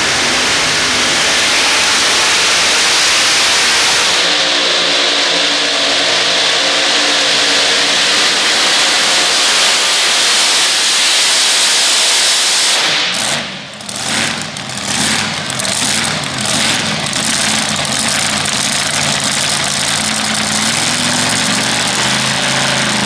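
A pulling tractor's engine running hard at high revs, loud and steady. About thirteen seconds in it drops off and comes back in several short revs before running steadily again.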